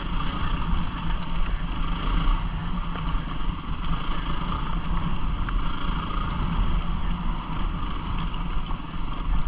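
250cc single-cylinder dual-sport motorcycle engine running steadily, with a low rumble and no clear revving.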